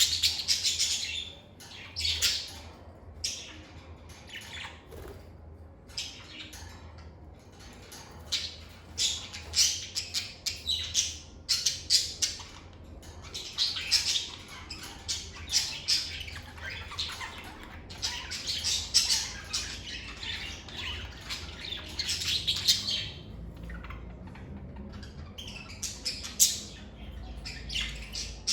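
Lovebirds chirping and squawking: rapid, shrill calls coming in clusters one after another, with a short lull near the end.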